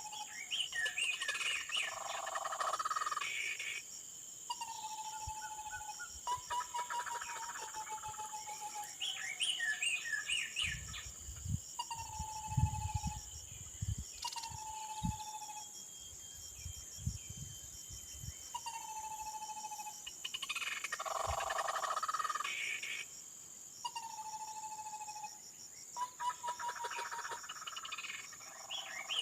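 Tepus (babbler) calls: a clear whistled note repeated every two seconds or so, with several bursts of chattering. A steady high insect drone runs underneath, and there are a few low thumps in the middle.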